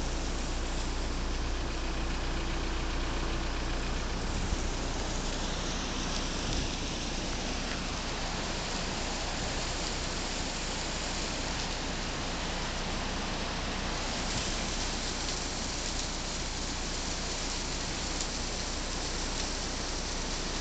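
Waterfall beside a road: steady rushing and splashing of falling water.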